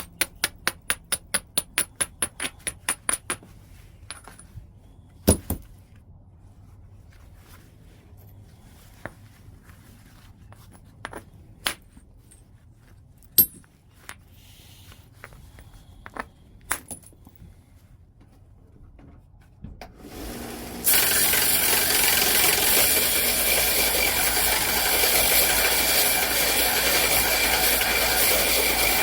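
Stone being worked in flintknapping white chert: a quick run of light clicks, about four a second, for the first three seconds, then a few sharp single strikes spread over the next fourteen seconds. About twenty seconds in, a loud steady rasping noise sets in and carries on.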